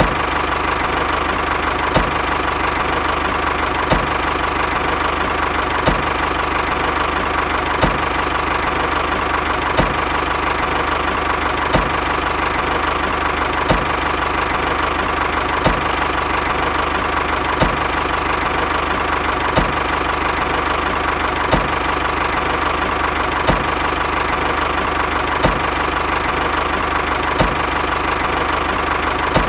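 A motor running steadily with a steady whine, and a sharp click about every two seconds.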